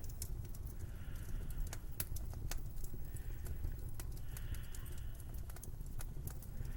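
Footsteps crunching through snow, a step every one to two seconds, over a low, steady rumble of winter wind.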